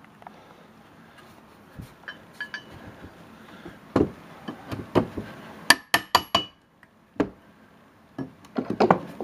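Irregular knocks and taps of work on an old wooden double-hung window frame and sash, with a quick run of bright, ringing glassy clinks about six seconds in.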